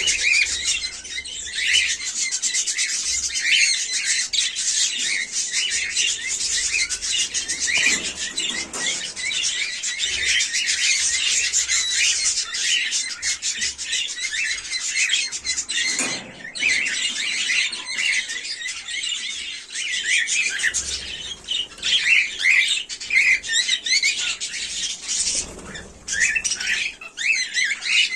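Cockatiels chirping and calling continuously, many quick overlapping chirps with occasional squawks.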